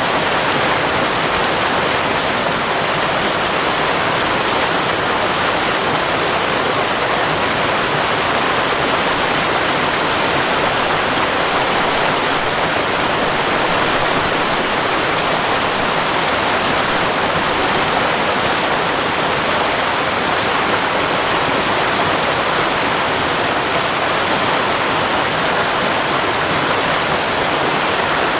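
Waterfall cascading over rock, a steady, unbroken rush of falling water.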